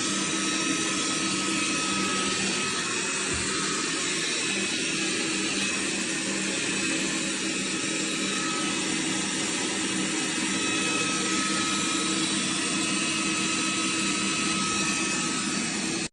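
MOVA P10 Pro Ultra robot vacuum's suction motor running steadily with a constant whine, cutting off suddenly at the end.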